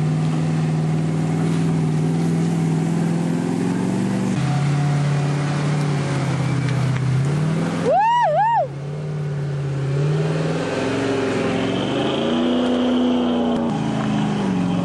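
4x4 engines running under load as a Jeep tows a stuck Toyota up a muddy slope, the engine pitch holding steady, stepping down and then rising and falling with the throttle. About eight seconds in, a short high whine rises and falls twice.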